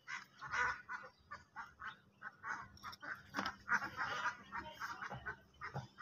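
Birds calling: a string of short, quick calls, several a second, over a faint steady hum.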